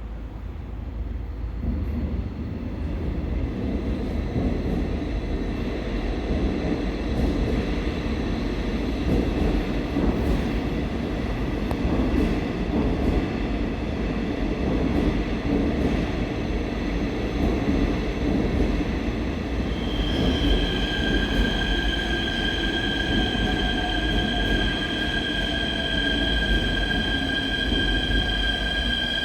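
Seoul Subway Line 4 electric train running into the station with a steady rumble that builds over the first few seconds. About two-thirds of the way in, a steady high-pitched squeal with ringing overtones starts and holds.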